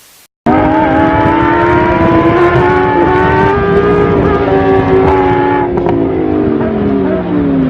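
Car engine at high revs, one loud held note that starts abruptly, climbs slightly, and drops in pitch over the last two seconds before cutting off.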